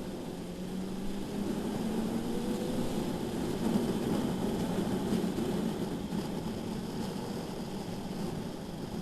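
BMW S1000RR inline-four sport bike engine running on track, its note rising and falling slightly with throttle, over a steady rush of wind noise.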